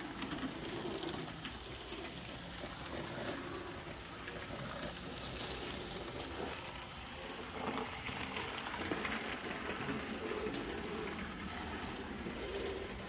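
Model steam locomotive running a lap of the track: a steady whirr of motor and gears with light clicking from the wheels.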